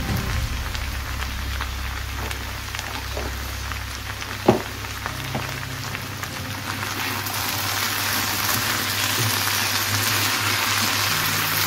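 Matchstick-cut potatoes sizzling in oil in a frying pan, with a single sharp knock about four and a half seconds in. Near the end a spatula stirs them and the sizzle grows louder.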